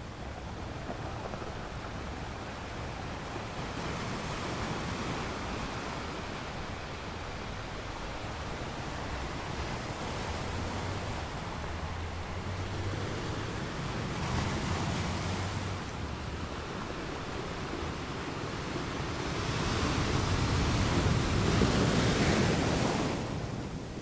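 Ocean waves washing in a steady, rising-and-falling surf. A bigger wave swells louder near the end and drops away just before the close.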